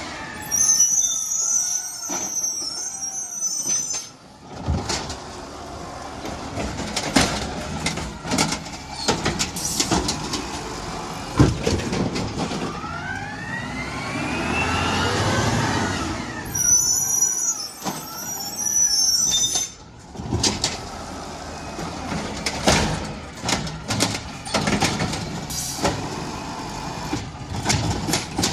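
Garbage truck at work: its engine running and revving up, with repeated clanks and bangs, and two hisses of about three seconds each, one near the start and one about midway.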